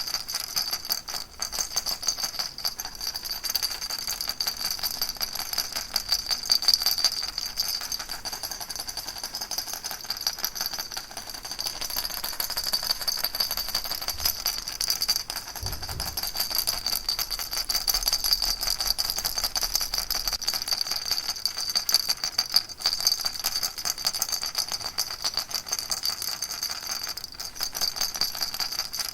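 Baby rattle shaken continuously, a fast, dense, steady rattling with no pauses, and a brief low thump about halfway through.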